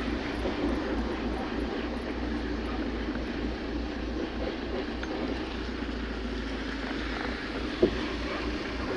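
Steady running noise of a vehicle on the move, a low rumble with a constant hum over it, and a single short knock near the end.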